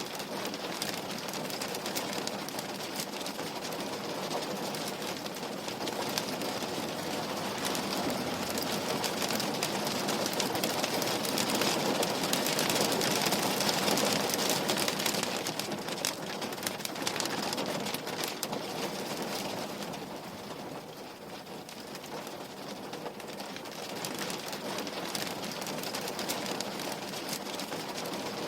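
Rain falling on a window pane, a dense steady patter of drops that swells louder around the middle and eases back after about twenty seconds.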